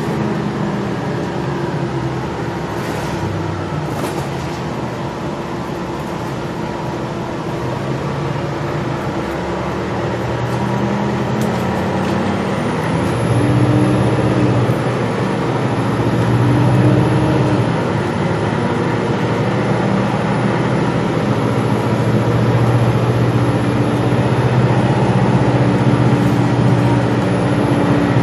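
Gillig Low Floor transit bus running and pulling away, its engine rising in pitch about halfway through and again near the end as it accelerates, over steady road noise. The heating and air-conditioning system is not running.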